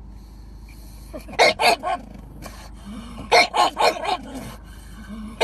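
A dog barking in two quick runs of short barks: three about a second and a half in, then four more about two seconds later.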